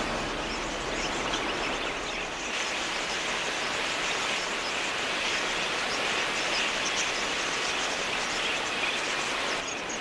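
A large flock of wild budgerigars chattering together, a dense steady wash of many small chirps.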